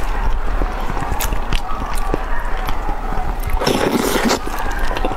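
Close-miked chewing of braised pork knuckle skin: wet, squishy mouth sounds with many small clicks, and a louder, longer wet burst about three and a half seconds in.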